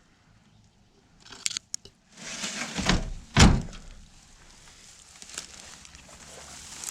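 A few light clicks, then a stretch of rustling with two dull thumps about half a second apart, the second the loudest.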